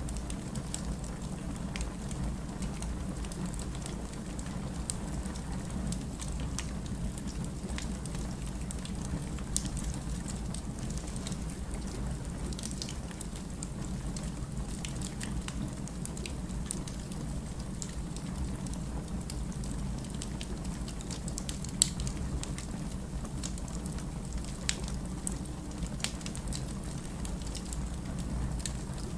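Wood fire burning: a steady low rush with scattered sharp pops and crackles, two of them louder, about a third of the way in and again about three quarters through.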